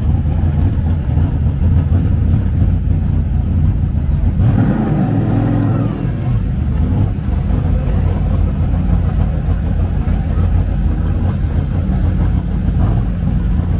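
A car engine running steadily close by, with a brief blip of revs about four and a half seconds in that rises and falls back within about a second and a half.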